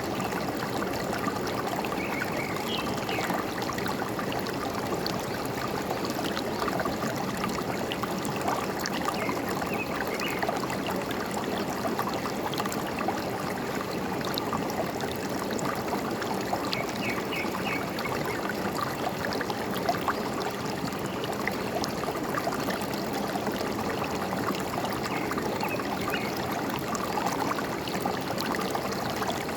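Forest stream running and trickling steadily, with faint short bird chirps a few times.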